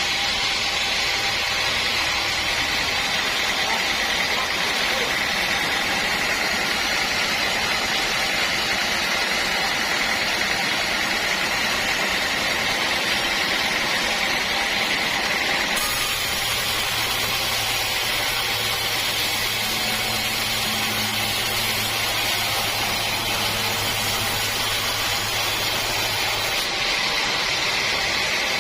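Sawmill machinery running steadily while sawing teak wood, a continuous high hiss of the blade. A low engine hum joins about halfway through and drops out shortly before the end.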